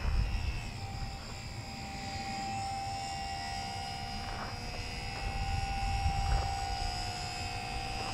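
HobbyZone Super Cub radio-controlled model airplane in flight, its electric motor and propeller giving a steady whine that wavers slightly in pitch, with wind rumbling on the microphone.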